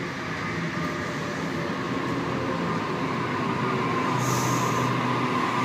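Sydney Trains Waratah (A set) electric train at the platform, with a steady electrical whine over a low rumble. A short hiss of air comes about four seconds in.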